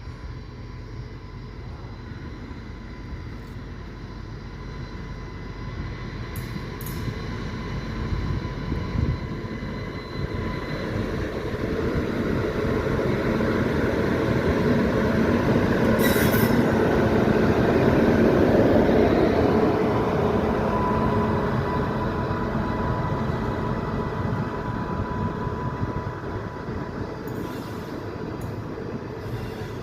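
A passenger train rumbling past, the noise of its wheels on the rails building to a peak about two-thirds of the way through and then fading. A thin steady whine rides over the rumble and is clearest in the later part.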